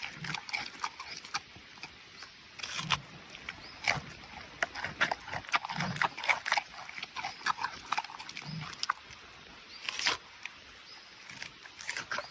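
Animal noises: many short, sharp high-pitched calls or clicks, with a brief low grunt-like sound about every three seconds.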